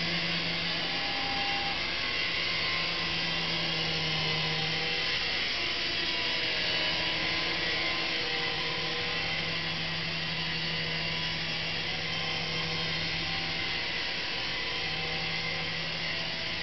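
Syma S109 Apache micro RC helicopter's small electric motors and coaxial rotors whirring steadily in flight, the pitch wavering slightly as the throttle shifts.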